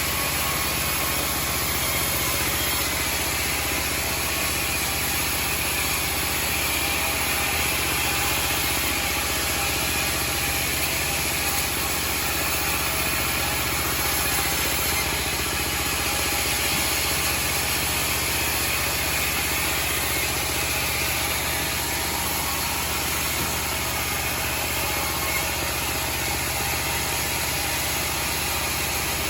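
Homemade bandsaw sawmill running steadily, its engine drone unbroken and even in pitch.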